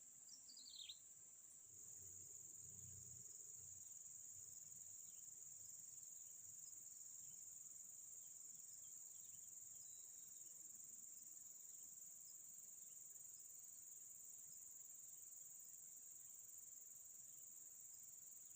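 Crickets chirping in a faint, steady high-pitched drone, with a short falling chirp near the start.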